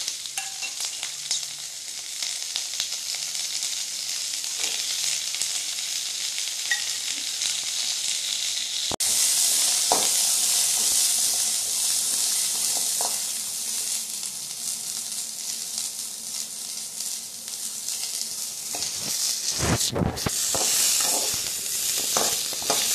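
Shallots, curry leaves, ginger and garlic sizzling in hot oil in a metal kadai, a steady hiss that steps louder about nine seconds in. A ladle stirs them, scraping and knocking against the pan a few times.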